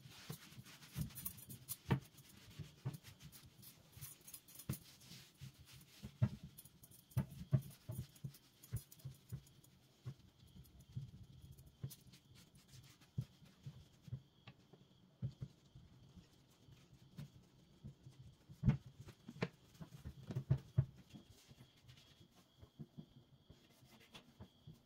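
Light knocks, taps and clicks at irregular intervals, with a faint steady high whine from about halfway.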